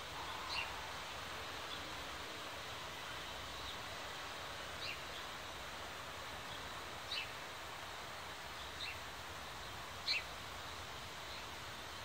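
A bird chirping briefly about five times, a second or two apart, over a steady hiss of outdoor background noise.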